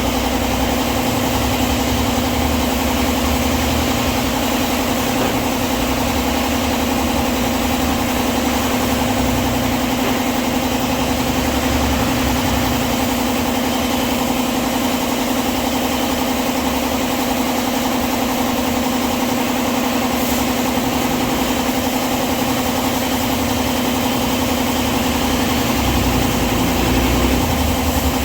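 A motor or engine running steadily with a constant hum, unchanging throughout.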